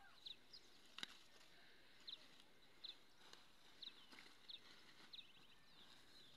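Near silence, with a bird giving faint short high chirps over and over, roughly one every half second to second, and a single soft click about a second in.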